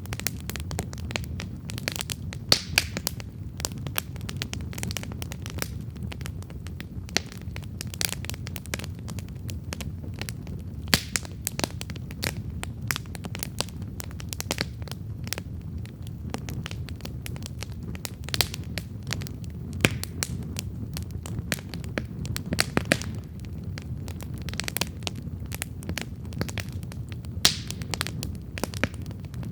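Wood campfire burning with a continual crackle of small sharp pops, a few louder snaps scattered through, over a low steady rumble of the flames.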